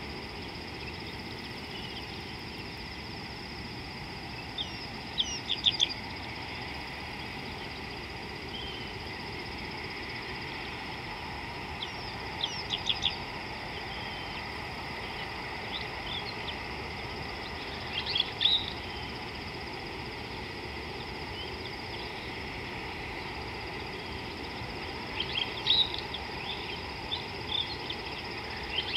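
A bird calling in short bursts of quick, high notes, four or five times several seconds apart, over a steady outdoor hiss.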